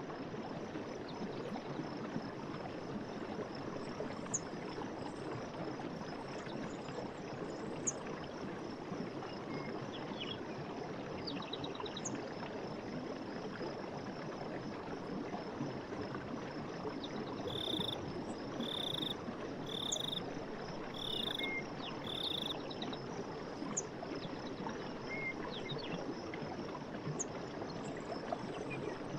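Night forest ambience: a steady rush of flowing water under a constant high insect chirring, with five short calls about a second apart midway through and a few scattered faint chirps.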